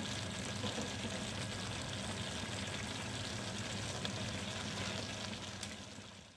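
Vegetables and sauce sizzling steadily in a wok beneath a heap of boiled spaghetti, fading out near the end.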